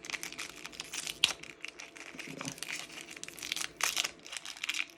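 Foil booster-pack wrapper crinkling and tearing as it is worked open with difficulty, with a few sharper crackles along the way.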